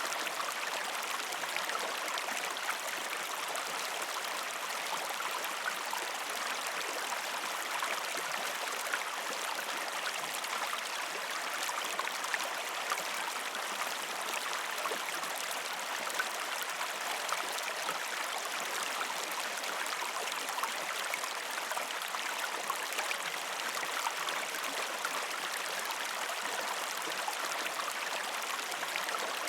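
A river stream running over rocks: a steady splashing rush with small bubbling droplets throughout.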